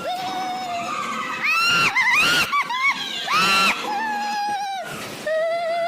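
Drawn-out wailing and shrill screaming. Long cries are held at a steady pitch for about a second each, with two louder, higher shrieks in the middle.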